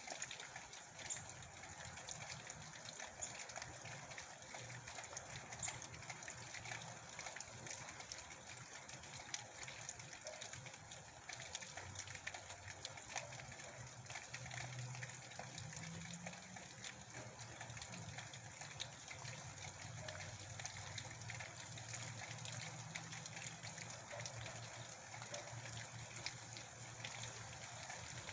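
Steady heavy rain: an even rushing patter with many small drop ticks. A low hum runs underneath, swelling and briefly rising in pitch about halfway through.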